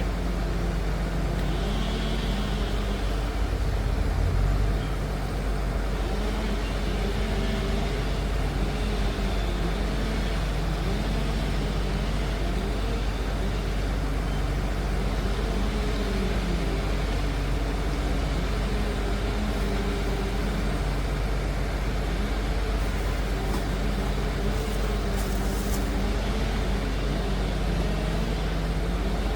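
Liebherr PR 746 crawler dozer's diesel engine running continuously, its pitch rising and falling slightly as it works.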